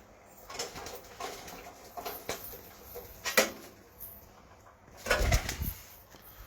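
Domestic pigeons moving and calling: several short scattered sounds, a sharp click about three and a half seconds in, and a louder rustling burst about five seconds in.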